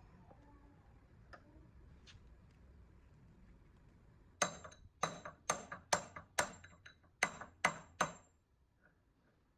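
Metal being struck with a tool: a run of about nine sharp, ringing metal-on-metal taps, about two a second, starting a few seconds in and stopping a little before the end.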